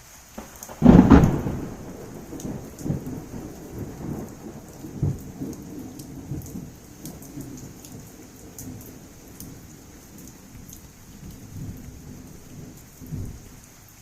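A thunderclap crashes about a second in and rolls on as a long rumble, swelling again a few times, over steady heavy rain with scattered drip ticks.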